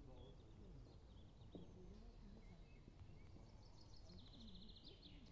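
Faint birdsong in quiet open-air ambience: scattered high calls, then a rapid trill about four seconds in.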